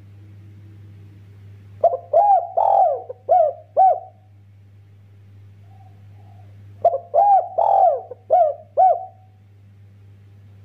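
Spotted dove (derkuku) cooing: two phrases of about five short, arching coos each, about five seconds apart, with a steady low hum underneath.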